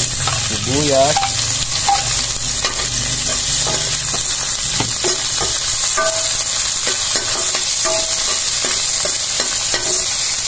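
Sliced onion and garlic sizzling in hot oil in a stainless steel wok, being sautéed, with a metal spatula scraping and clinking against the pan as it is stirred.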